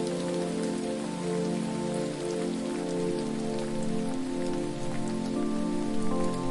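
Falling water: a steady, even rush with a fine patter of drops, under soft sustained musical tones that change every second or so.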